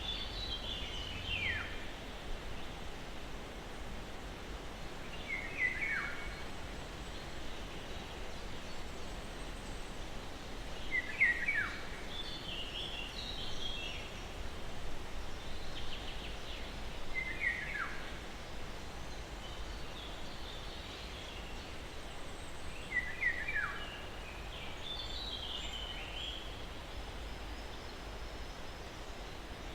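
Birds singing in a forest soundscape: a short downward-sweeping phrase repeats about every five to six seconds, with other higher chirps in between. Under it runs a steady soft rush of breeze.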